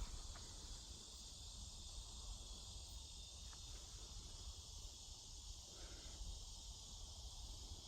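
Faint, steady chorus of crickets in woodland, over a low rumble.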